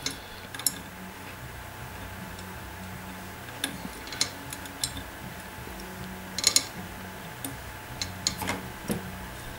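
Scattered small metallic clicks and taps, irregularly spaced, as a screwdriver undoes the body-retaining screw on a Hornby Dublo tank locomotive and the model is handled, over a faint steady hum.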